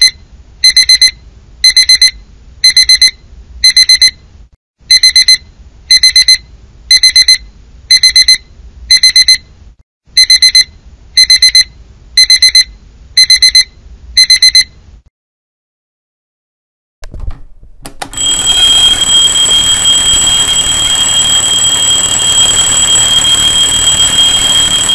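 Digital alarm clock beeping in quick bursts of high beeps about once a second; the beeping stops just past halfway. After a short silence, a twin-bell mechanical alarm clock rings continuously and loudly.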